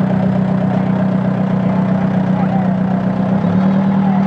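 A vehicle engine running steadily at low revs, its hum stepping slightly higher about three and a half seconds in.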